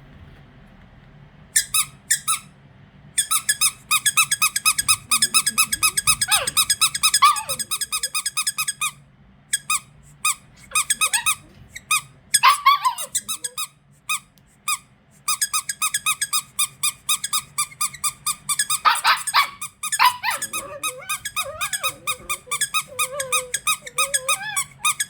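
Squeaky dog toy squeezed over and over, giving rapid pitched squeaks several times a second in runs broken by short pauses.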